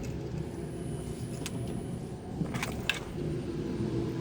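Steady low rumble of the Chevy Avalanche's engine idling, with a few short clicks about two and a half seconds in.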